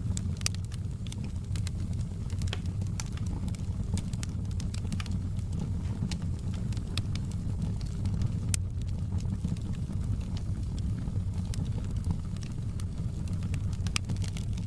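Wood fire in a fireplace crackling, with many sharp irregular pops over a steady low rumble of the burning.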